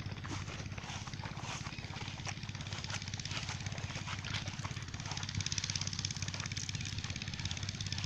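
Chinese diesel engine of a pump set running steadily under load, with a fast, even knocking beat over a low hum.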